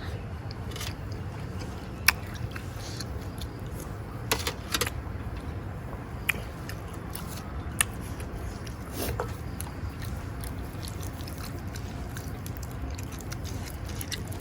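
Person chewing a mouthful of raw beef and fresh vegetables, with a few short sharp clicks and crunches between long stretches of chewing. A steady low hum runs underneath.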